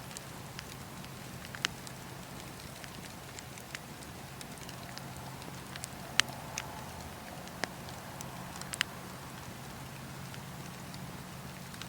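Campfire crackling: a steady background hiss with a faint low hum, broken by about half a dozen sharp pops from the burning wood, the loudest about six seconds in.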